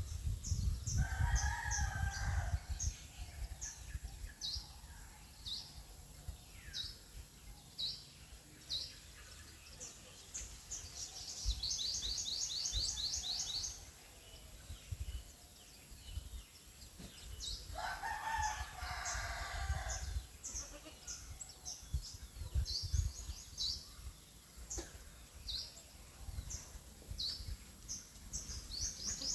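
Birds calling outdoors: two long calls of about two seconds each, near the start and a little past halfway. Between them come many short, high chirps and a fast, buzzy trill a little before halfway, over a low rumble.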